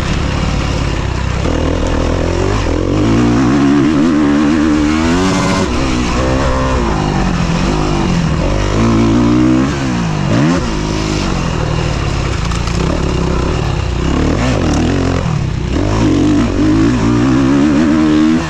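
Dirt bike engine being ridden hard, its pitch rising and falling again and again as the throttle is opened and closed and gears change.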